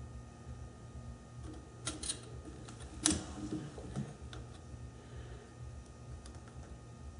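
A few sharp metallic clicks and clacks from tools and parts being handled at a metal lathe during setup: two close together about two seconds in, then a louder clack with a short ring about a second later. A low steady hum sits underneath.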